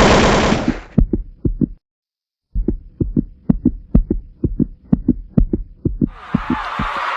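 A steady rhythm of short, low thumps, about three a second, over a faint hum, cutting out briefly about two seconds in; it follows a loud rushing sound that fades away in the first second.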